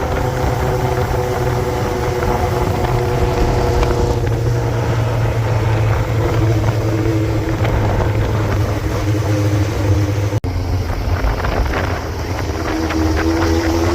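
Motorcycle engine running at road speed, its pitch dipping and rising a little, with wind on the microphone. The sound cuts out for an instant about ten seconds in.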